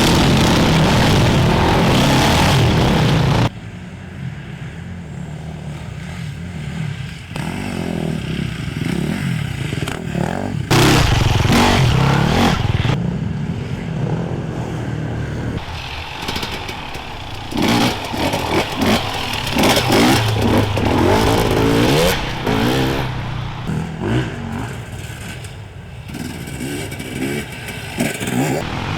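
Off-road enduro motorcycles riding past one after another, engines revving up and falling away as they pass. A loud, dense opening stretch cuts off abruptly about three and a half seconds in.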